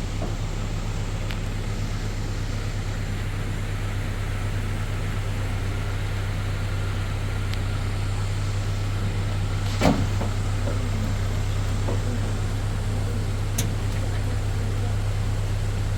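A vehicle engine running at a steady low hum, with a single sharp knock about ten seconds in and a lighter click a few seconds later.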